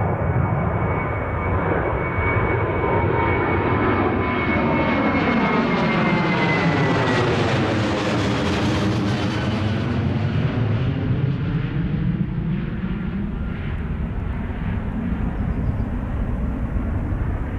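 Jet airliner's engines passing low overhead, the sound building to a peak about halfway through and then fading, with a high engine whine that falls slightly in pitch as it goes by.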